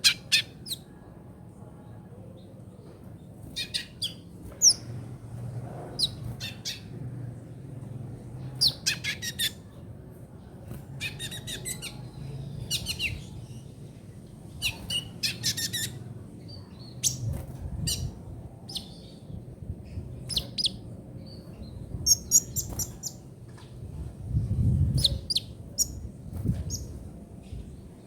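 A kolibri ninja sunbird singing in a rapid chattering 'trotol' style: bursts of high, thin chirps and quick trills, repeated with short gaps. A steady low hum runs underneath.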